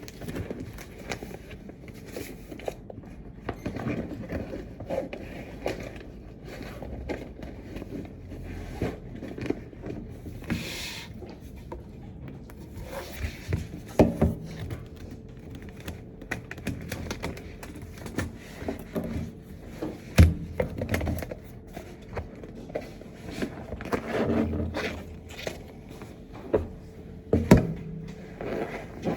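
Objects being handled: irregular scraping, rustling and knocks in a small room, with a few sharper knocks about halfway and near the end, over a faint steady hum.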